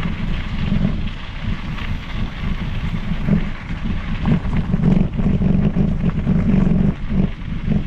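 Wind buffeting the microphone over the rolling rumble of a mountain bike's tyres on the trail, with a few small knocks and rattles from bumps. The rush swells louder through the second half.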